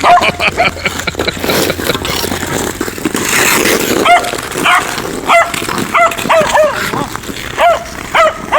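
A puppy yapping, about eight short high yips spaced roughly half a second apart through the second half. Before the yips there is a rough scraping noise, the sound of play on the icy snow crust.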